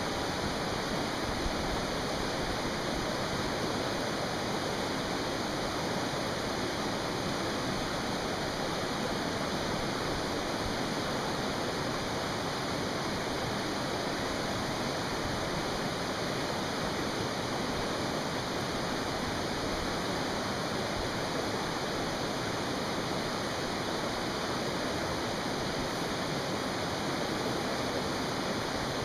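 Mountain stream rushing steadily, an even, unbroken water noise.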